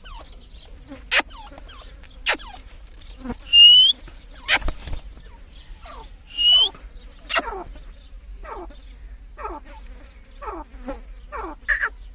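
Grey francolins (dakhni teetar) calling. There are two short, shrill rising notes, then a series of quick falling chirps repeated about twice a second, with a few sharp clicks in between.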